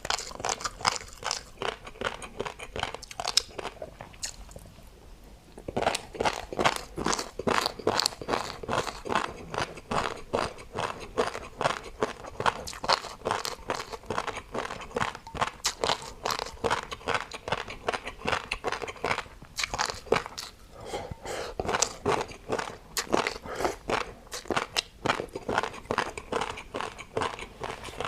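Close-up chewing and crunching of food: a dense run of crisp crunches, with a short pause about four to six seconds in.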